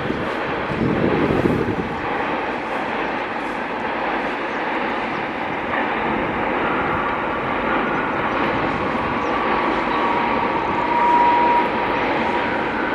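Express passenger train, hauled by an electric locomotive, rumbling steadily across a long river bridge heard from a distance. In the second half a faint high whining tone rises out of the rumble.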